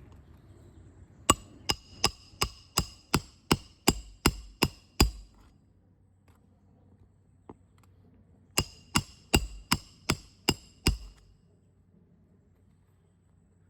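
Roofing hammer striking nails with a metallic ring: eleven quick, even blows at about three a second, then a pause of a few seconds and seven more, as roofing nails are driven into asphalt shingles.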